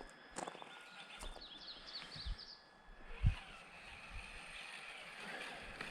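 A small bird chirps a quick run of about eight high notes, with a few soft low thumps, one louder about three seconds in.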